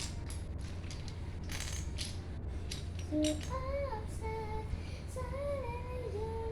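Loose plastic Lego pieces clicking and rattling as they are handled and sorted, then from about three seconds in a child humming a tune.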